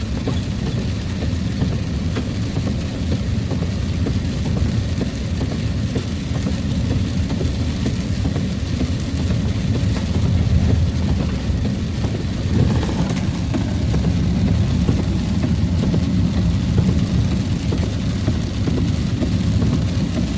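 Steady low rumble inside a truck cab, with a fainter hiss of rain over it.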